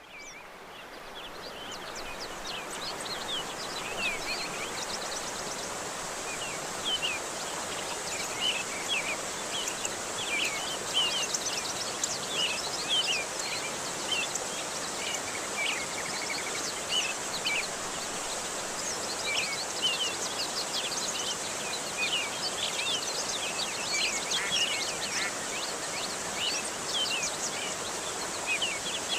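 Steady rush of flowing water with many short bird chirps over it and a thin high insect-like hum, fading in over the first couple of seconds.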